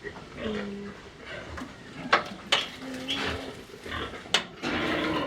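Farm animals calling in short pitched calls, with a few sharp clanks in between.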